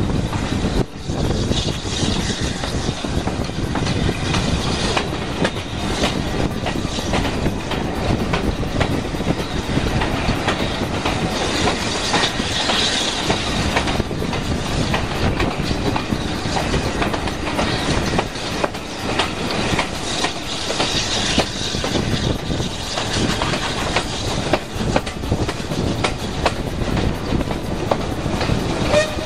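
Heritage railway passenger coach running along the line, its wheels clacking steadily over the rail joints, heard from an open carriage window.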